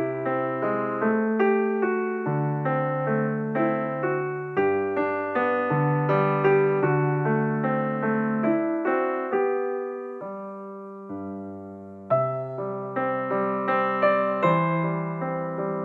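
Background piano music, gentle notes struck at an even pace, fading to a held chord about ten seconds in before the melody picks up again.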